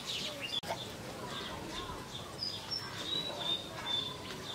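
Small birds chirping repeatedly, with several short high whistled notes in the second half.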